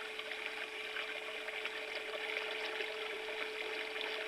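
Stream water running steadily, a continuous rushing splash like a big faucet filling a bathtub, with a steady low hum underneath.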